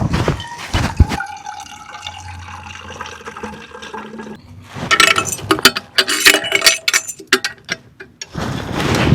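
Liquid being poured and sloshing, with a run of sharp clinks and knocks of cookware.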